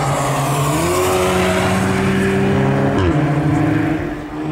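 Car engines accelerating past on a race track: an engine note climbs in pitch and holds under load, then drops sharply about three seconds in as another car's engine carries on behind it.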